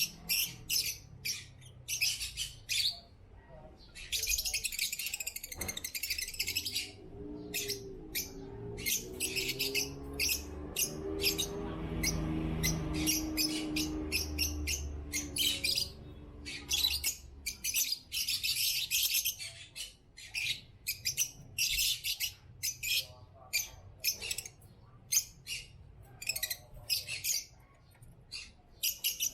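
African lovebirds chirping: rapid, high-pitched chirps in quick succession, running together into continuous chatter for a couple of seconds about four seconds in and again past the middle.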